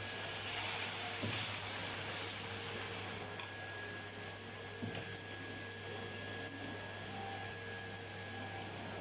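Appam batter sizzling on a hot dosa griddle; the hiss is strongest for the first three seconds and then dies down to a faint steady sizzle.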